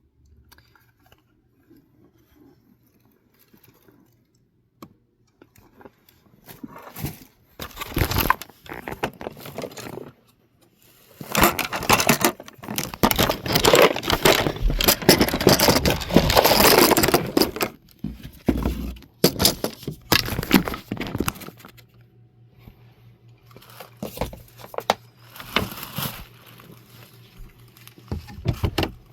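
Rustling, scraping and clattering handling noise close to the microphone, in irregular bursts that are loudest in the middle: the camera and things around it being handled as it is moved to a new angle.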